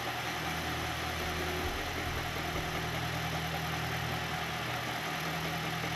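Milling machine running steadily, its end mill cutting a carbon fiber handguard, with an even hum under a steady hiss.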